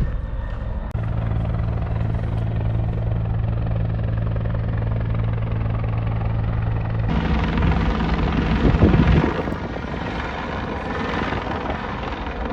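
Rescue helicopter's rotor beating steadily in a low, pulsing chop, with a louder rush about nine seconds in.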